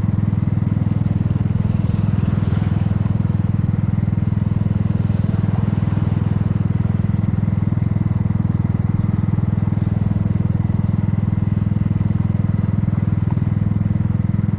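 Kymco People 250 scooter's single-cylinder four-stroke engine running steadily under way, with an even low exhaust note, its exhaust leaks sealed with high-heat epoxy putty.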